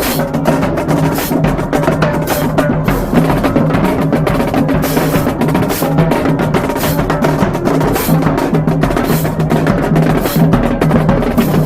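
Marching band playing, with a driving drumline of snares and bass drums under sustained pitched notes.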